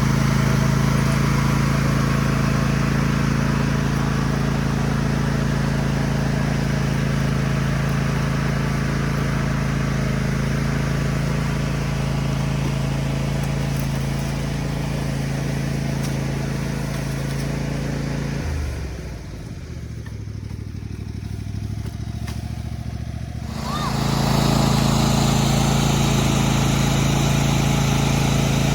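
Cub Cadet lawn tractor engine running steadily at a constant speed. About two-thirds of the way through it drops to a lower, quieter note for about five seconds, then comes back up to the same steady speed.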